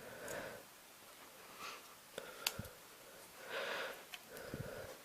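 A person breathing heavily and sniffing close to the microphone, in soft repeated breaths, with a few small sharp clicks of handling, the loudest about two and a half seconds in.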